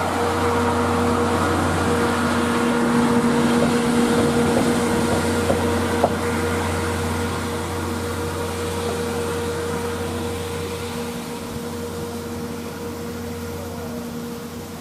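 Departing passenger train running past at low speed: 12-series coaches and the rear EF65 electric locomotive give a steady machine hum with a held tone, which fades over the last several seconds as the train pulls away. A single sharp click about six seconds in.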